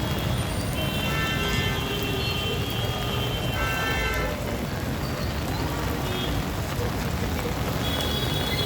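Jammed street traffic: a steady rumble of engines and tyres with vehicle horns honking, several held honks in the first half and another starting near the end.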